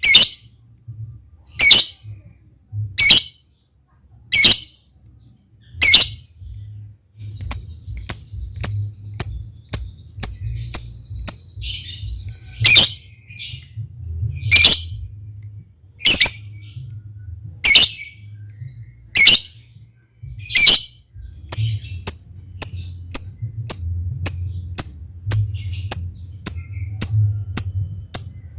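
Lovebird giving loud, shrill single calls about every second and a half, mixed with quick, thin ticking chirps that come thicker and faster in the last quarter, over a faint low hum.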